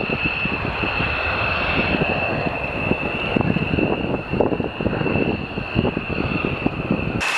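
Jet aircraft engine running: a steady high whine over a rough, rumbling roar, cutting in suddenly at the start. Near the end the low rumble drops away and the whine and hiss carry on.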